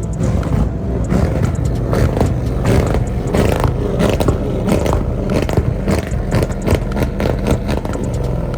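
Muscle car engine revving hard, its exhaust letting off a rapid string of sharp pops and cracks like gunshots.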